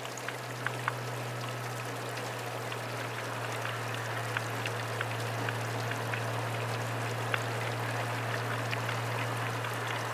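Rain hitting a motorcycle windshield and helmet while riding: an even hiss with scattered sharp drop ticks over a steady low drone.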